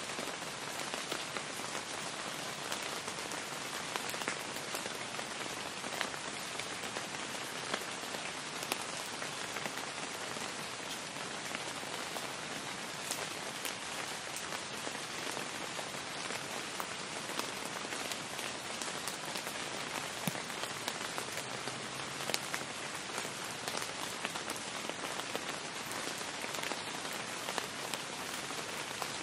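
Steady rain falling: an even hiss dotted with the patter of individual drops.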